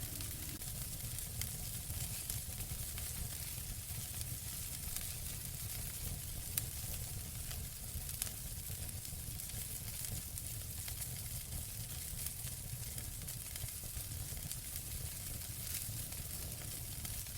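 Fire burning in a fireplace: steady crackling and hissing over a low rumble, with a couple of sharper pops a little after the middle.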